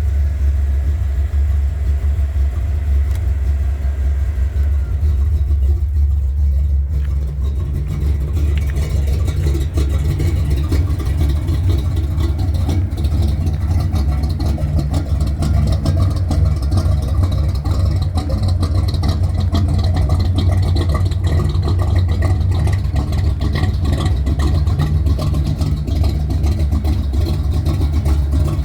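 A 1970 Chevy C10 pickup's engine running steadily, its sound mostly low and even, turning busier and rougher about a quarter of the way through.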